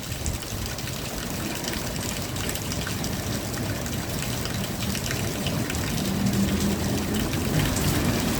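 Steady rain falling, an even wash of water noise. A faint low hum comes in for a moment about six seconds in.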